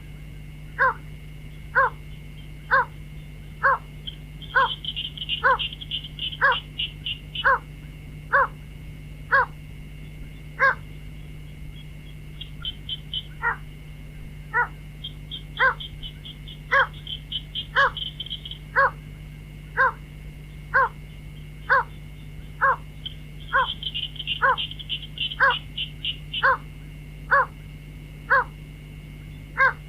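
White-breasted waterhen (cuốc) calling: a monotonous series of short notes about once a second, broken three times by a few seconds of fast, high chattering.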